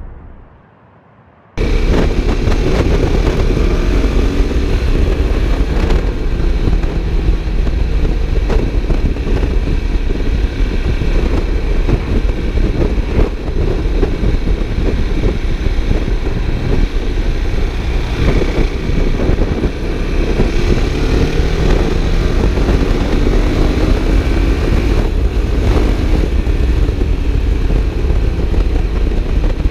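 KTM 690 Duke's big single-cylinder engine, breathing through a Sebring slip-on exhaust with the catalyst still fitted, running under way with its pitch rising and falling as the throttle is worked, heard from the rider's chest with wind noise over it. It cuts in about a second and a half in, after the tail of a fading boom.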